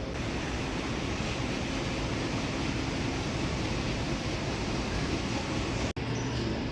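Steady low rumbling noise of a large exhibition hangar, with no voices standing out; the sound drops out for an instant near the end.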